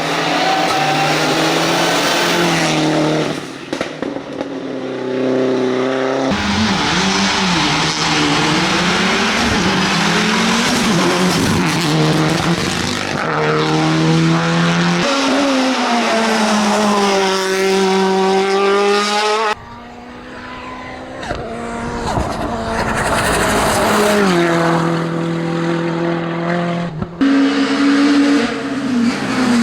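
Hillclimb racing cars' engines at full throttle, their pitch rising and falling repeatedly through gear changes and lifts, across several abruptly cut passages.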